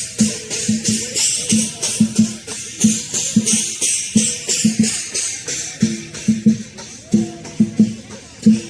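Lion dance percussion: a big drum beating a quick, steady rhythm with cymbals clashing over it.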